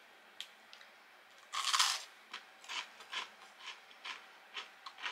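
A bite into crisp breadcrumb-coated deep-fried food: one loud crunch about a second and a half in, then steady crunchy chewing, about three crunches a second.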